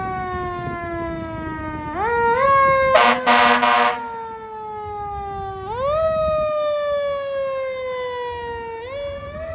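Emergency vehicle's mechanical siren that winds up quickly three times and slowly coasts down in pitch between, with a loud air-horn blast about three seconds in.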